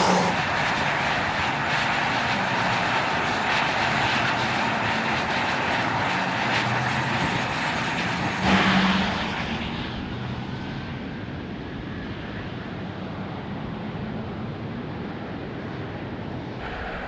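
Steady rushing vehicle noise, which briefly swells a little before halfway, then turns quieter and duller for the rest.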